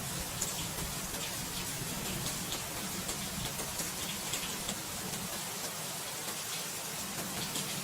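Steady rain, an even hiss with the pattering taps of individual drops.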